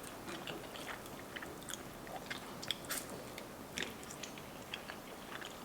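Close-miked mouth sounds of someone chewing a mouthful of spicy instant ramen noodles dipped in ranch dressing: soft, wet smacks and small clicks at irregular intervals.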